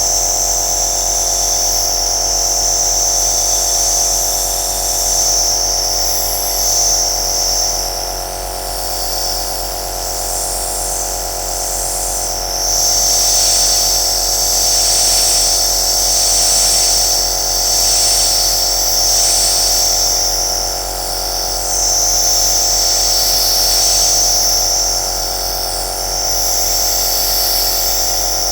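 Compressor nebulizer running: a steady motor hum under a high hiss of air and mist that swells and eases every few seconds.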